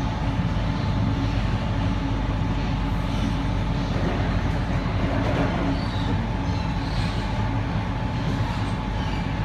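Electric suburban passenger train running at speed, heard from inside the carriage: a steady rumble of wheels on rails with a thin steady whine over it.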